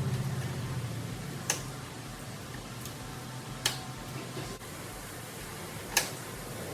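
Car engine idling as a low steady hum that eases off over the first couple of seconds, with three sharp clicks about two seconds apart.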